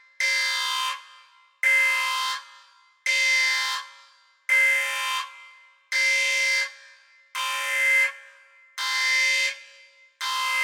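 An electronic alarm horn sounding in a regular series of harsh, steady-pitched blasts, each just under a second long and repeating about every one and a half seconds, about eight times.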